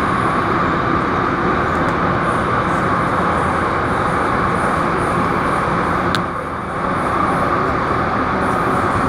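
MTR Tung Chung Line A-Train running at speed, heard from inside the carriage: a steady rushing rail and running noise. About six seconds in the noise dips briefly with a short high squeak.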